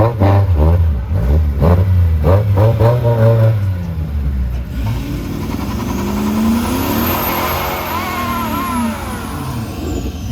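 Car engines revved hard several times in quick succession. About five seconds in, a car accelerates flat out, its engine note and a high whine climbing, then falling away near the end.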